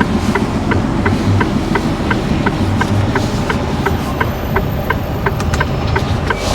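Lorry's diesel engine running at low revs, heard from inside the cab, with the flasher relay for the hazard or indicator lights clicking steadily at about three ticks a second.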